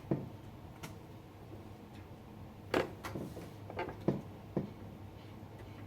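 Light clicks and knocks of a screwdriver and hardware being worked while fastening a spring-loaded mount in a PC build: about half a dozen scattered taps, the loudest in a cluster in the middle, over a faint steady hum.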